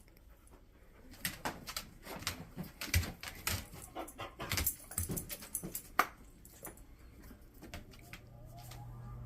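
A dog's claws scratching and tapping at the floor as it paws and digs: an irregular run of short clicks and scrapes, with one sharp click about six seconds in.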